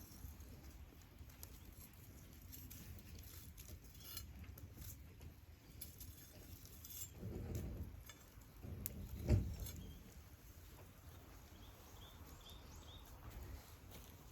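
Wood fire crackling with scattered small pops and ticks. About seven seconds in there is a duller low rustle, and a single low thump follows about nine seconds in, the loudest moment.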